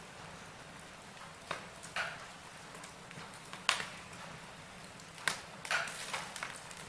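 Wood fire burning in a fireplace, crackling: a steady soft hiss broken by irregular sharp pops and snaps, the loudest a little under four seconds in and a cluster around five to six seconds.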